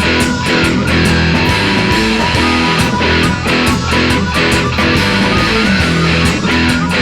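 Rock band playing an instrumental passage led by electric guitar, with steady regular beats and no singing.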